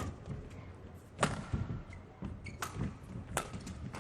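Badminton rally: rackets striking the shuttlecock with sharp, ringing cracks about a second apart, the loudest about a second in, over lower thuds of players' footwork on the court.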